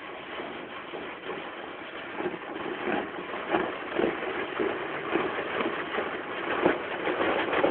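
Automatic car wash spraying detergent-laden water onto a car, a dense, uneven spattering on the body that grows louder toward the end.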